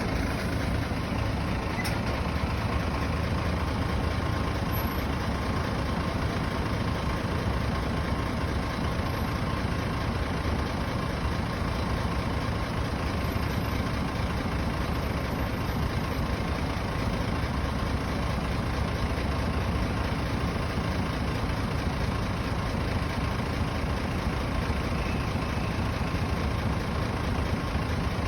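Road sweeper truck's diesel engine running steadily with no change in pace, heaviest in the low end, with a faint steady whine above it.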